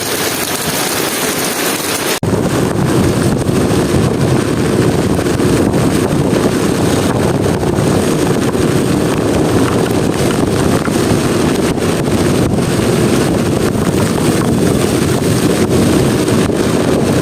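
Steady rain hiss; about two seconds in it switches abruptly to a louder low rumble of wind buffeting the microphone.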